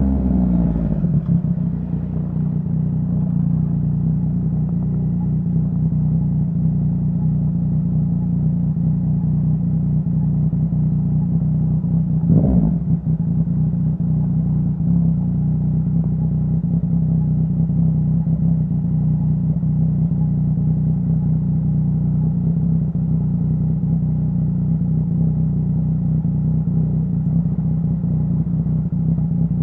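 Yamaha Tracer 900's three-cylinder engine through a Dominator HP3 full exhaust, recorded from inside the rider's backpack. Revs drop in the first second as the bike slows, then the engine idles steadily, with one brief throttle blip about twelve seconds in.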